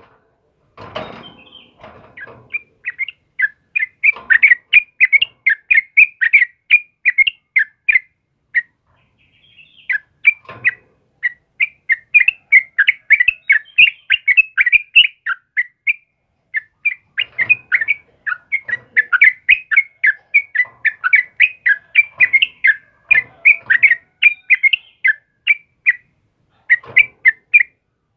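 Yellow-vented bulbul (trucukan) singing: long runs of quick, bubbly chirping notes, several a second, broken by brief pauses.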